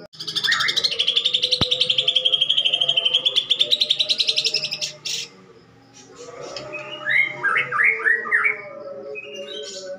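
Cucak ijo (green leafbird) singing harshly: a loud, very fast buzzy trill lasting about four and a half seconds, then after a short pause a run of quick sharp chirps. The bird is mimicking the calls of fighting tree sparrows.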